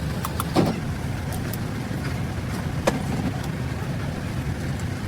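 A few sharp knocks with a brief ring, the loudest about half a second in and another near three seconds, over a steady low rumble.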